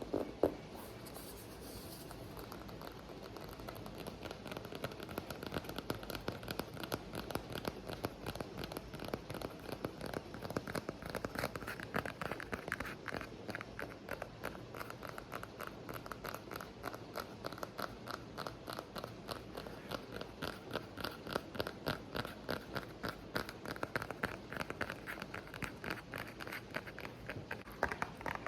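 Quick, continuous ASMR tapping, many light clicks a second, over a steady rain background. The taps are softer for the first couple of seconds, then sharper and brighter.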